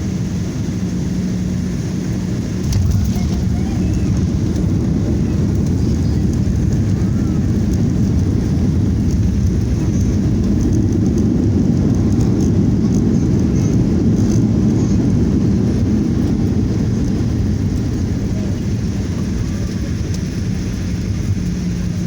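Boeing 737-800 engines and rushing air during landing: a steady, dense roar that steps up about three seconds in, swells through the middle, then eases off toward the end.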